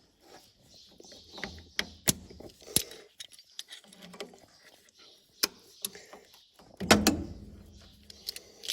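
Scattered sharp metal clicks and clinks of hand tools working at a pin and cotter pin in a combine's linkage, with one louder clunk about seven seconds in.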